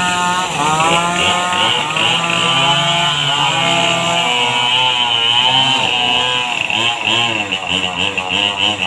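Motorcycle engine running, its pitch rising and falling again and again as the revs change.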